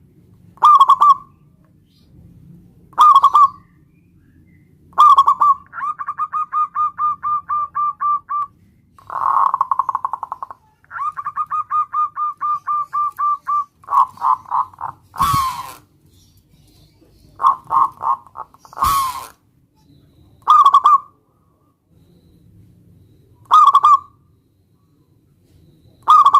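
Zebra dove (perkutut) cooing: single coos about every two seconds, then long rapid runs of short staccato coo notes at several notes a second, then single coos again. Two brief noisy bursts stand out in the middle of the song.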